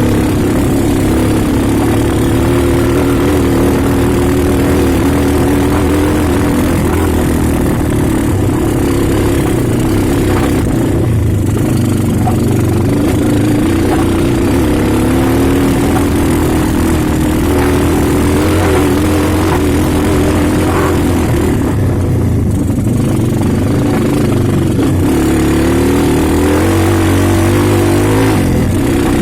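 Motorcycle engine running steadily, its revs slowly rising and falling.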